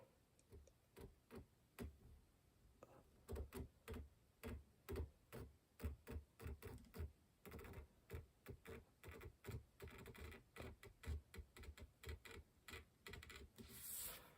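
Homemade checkering tool, a reshaped flat-bladed screwdriver, cutting lines into wood: a quick run of short strokes, about two to three a second. A brief hiss near the end.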